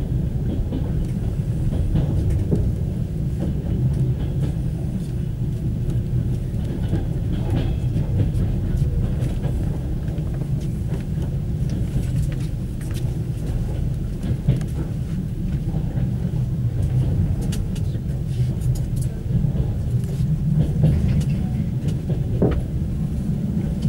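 Passenger coach of an express train rolling along electrified track, heard from inside the car: a steady low rumble with scattered light clicks.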